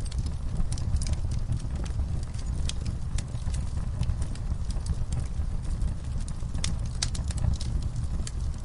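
Wood campfire crackling: irregular sharp pops and snaps, a few louder than the rest, over a low steady rumble of the burning fire.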